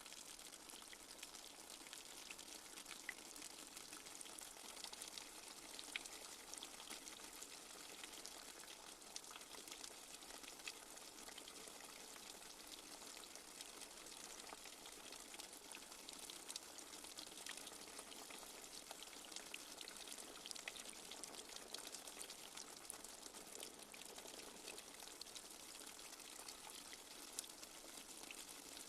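Light rain falling steadily: a faint, even hiss with many scattered drop ticks.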